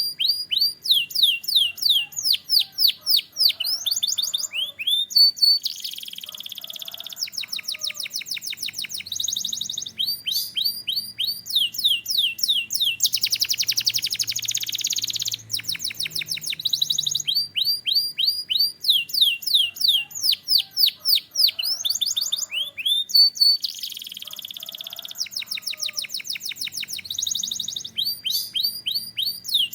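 Canary singing a continuous song of rapid trills made of quick falling notes, broken three times by a denser buzzing roll.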